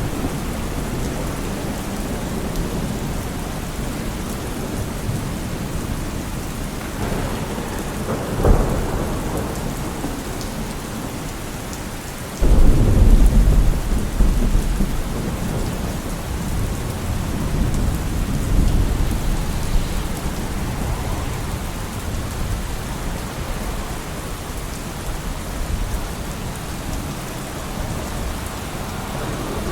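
Steady rain falling. Partway through, a brief sharp crack is followed a few seconds later by a sudden deep rumble that fades away over several seconds.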